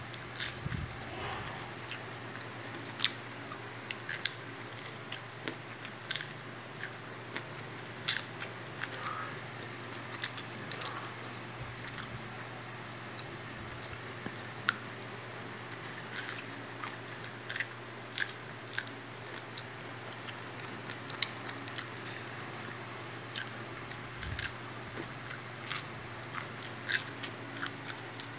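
A toddler eating corn kernels by hand: small irregular clicks and wet smacks of chewing and of sucking his fingers, scattered through the stretch. A steady low hum runs underneath.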